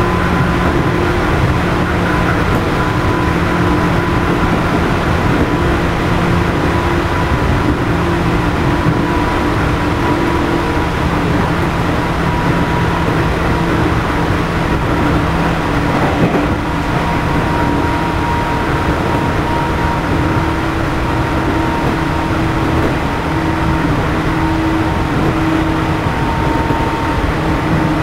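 Running noise inside a JR East 211 series motor car, MoHa 211-1, whose traction motors have external cooling fans: a steady hum of the motors and fans with several held tones over the rumble of the wheels on the rails. This car is known among enthusiasts for its unusual motor noise.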